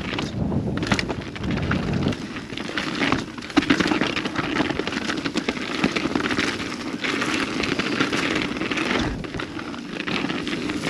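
Mountain bike descending a snowy trail: a steady loud rush of wind on the microphone, mixed with crackling tyre and bike rattle noise.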